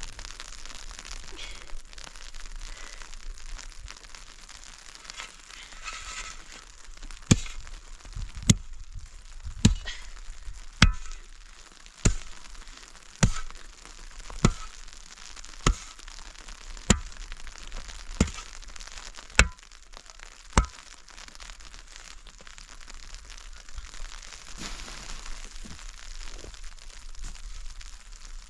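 About a dozen sharp knocks, evenly spaced a little over a second apart, starting about a quarter of the way in and stopping about two-thirds through, over a steady crackling hiss.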